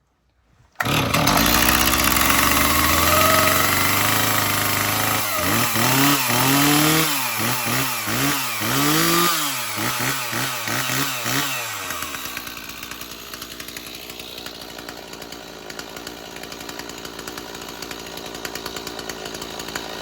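1985 Stihl 026 Farm Boss two-stroke chainsaw cold-started with the choke set. It catches suddenly about a second in and runs fast and steady. From about 5 s it is revved up and down about ten times, then settles to a quieter idle at about 12 s.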